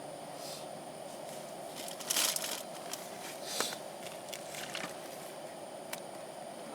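A steady hiss, with brief rustling and scraping handling sounds about two and three and a half seconds in and a few small clicks.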